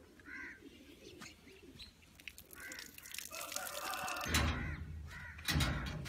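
Farmyard birds calling: several short, arching calls and a longer call about three seconds in. Two low rumbles of wind or handling noise come near the end.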